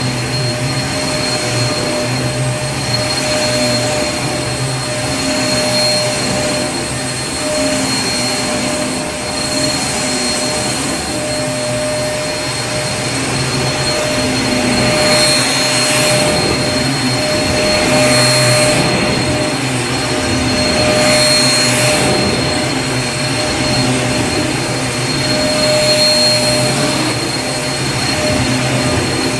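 Vacuum cleaner running steadily: a constant motor whine and hum over a rushing airflow noise. Around the middle, the hiss of the airflow swells and fades several times, about three seconds apart.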